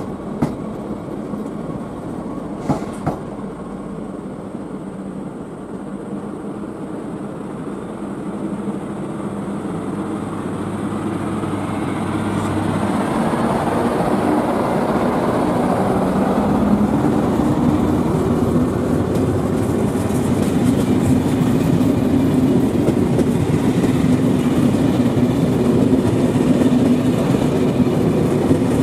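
SNCF BB 7200 electric locomotive hauling a rake of Intercités coaches past at close range, its motors humming over the rumble of the wheels on the rails. The sound grows louder over the first half as the locomotive comes by, then holds steady as the coaches roll past. There are two sharp clicks in the first few seconds.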